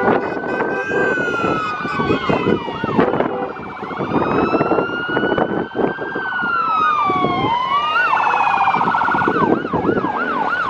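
Several emergency-vehicle sirens sounding at once in a slow rising and falling wail, the tones overlapping, with a fast warbling yelp joining in during the last few seconds; vehicle engine and road noise run underneath.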